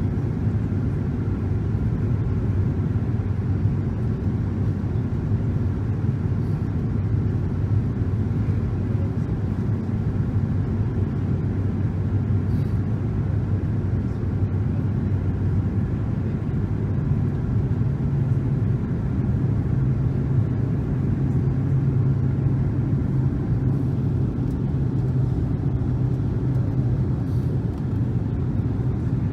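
Steady low rumble of a Boeing 777-300's engines and airflow heard inside the passenger cabin in flight. The low hum steps up slightly in pitch about two-thirds of the way through.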